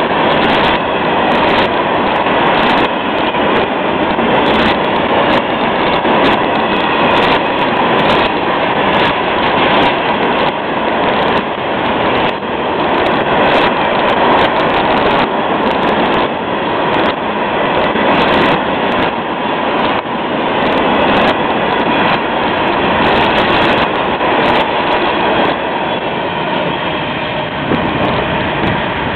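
Long freight train of hopper cars rolling past at a grade crossing: a steady rumble and rattle of steel wheels on rail, with frequent sharp clacks as the wheels cross the joints. It eases off slightly near the end as the last cars pass.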